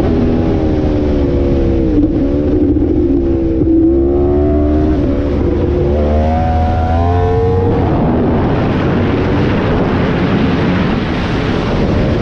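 Yamaha YZF-R1M's crossplane inline-four through an SC Project exhaust, heard from on board. The engine note falls off, then climbs twice as the bike pulls through the revs. From about two-thirds through, a steady rush of wind noise covers most of the engine.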